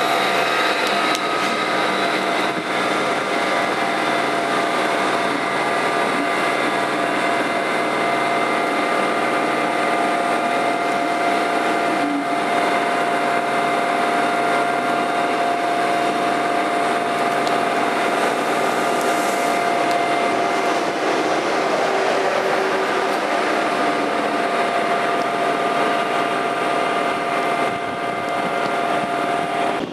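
TGV Duplex double-deck high-speed train rolling slowly along the platform: a steady electric hum made of several held tones over the even running noise of the train.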